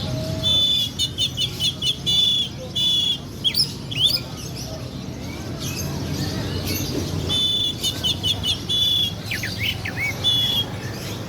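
Songbird singing in two rapid bursts of song: high steady whistles and quick runs of repeated notes, each phrase ending in sharp sweeping notes, the first about half a second in and the second about halfway through. A steady low rumble of background noise runs underneath.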